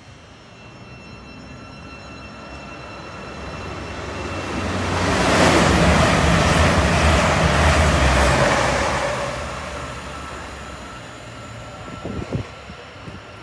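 A train passing, its noise building to a peak about five seconds in, holding for a few seconds and then fading away. A few sharp clicks near the end.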